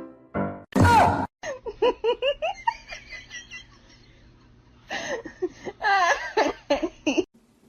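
A person laughing in quick runs of high, bouncing giggles, in two bouts, after a short loud burst about a second in.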